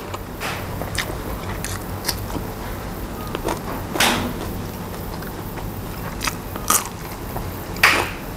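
A person chewing food close to a clip-on microphone, with irregular crisp crunches, the loudest about four seconds in and near the end.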